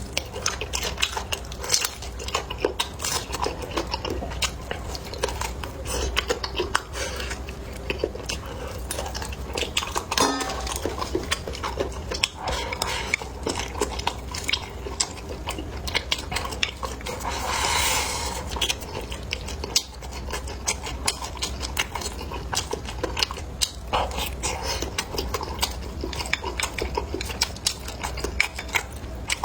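Close-miked eating: steady chewing and biting with many small clicks of utensils against dishes, over a steady low hum.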